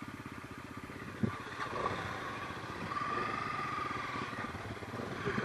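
Trail motorcycle engine running steadily at low revs, with a single sharp knock about a second in.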